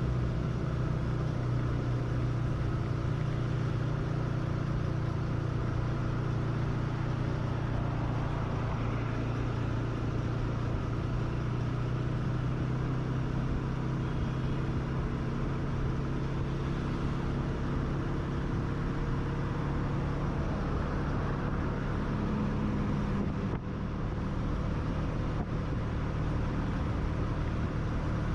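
A vehicle's engine running steadily on the move, with road and wind noise over it.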